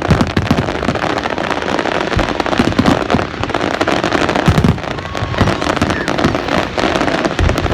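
Fireworks display: a dense, continuous crackle of rapid bangs, with heavier booms from shell bursts scattered through it.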